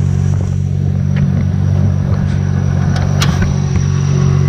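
A car engine idling steadily, with a sharp click about three seconds in.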